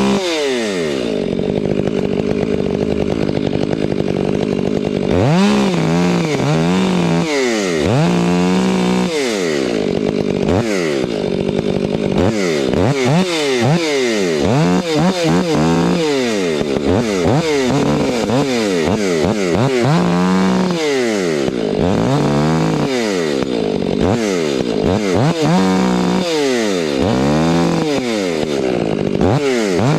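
Chainsaw cutting wood, its engine revving up and falling back again and again, with a steadier stretch in the first few seconds.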